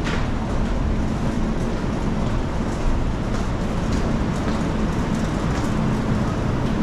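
Steady low rumble of aircraft ground noise at the boarding gate, with a faint steady hum and a few light ticks.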